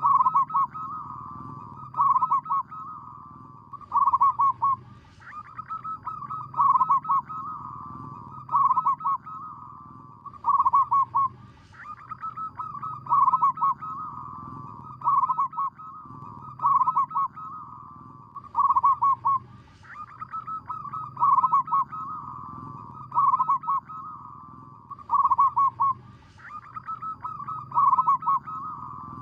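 Zebra dove cooing: a series of staccato, pitched call phrases repeating about every two seconds, each ending in a louder run of quick notes.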